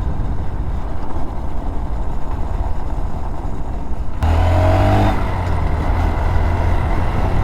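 Motorcycle engine running under way with a rumbling road and wind noise. About four seconds in the throttle opens and the engine note rises sharply for about a second, then holds at a steady, louder drone.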